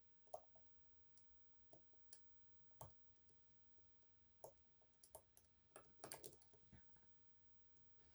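Faint, irregular clicks of a short flat hook and tensioner working the unsprung sliders of an EVVA 3KS high-security lock, with a quick run of several clicks about six seconds in.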